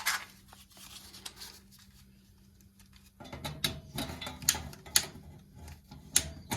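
Scattered sharp clicks and handling noises at the boiler's gas valve and pilot while the standing pilot is being lit. A faint steady hum runs until about three seconds in; after that the clicks come over a rougher rushing noise.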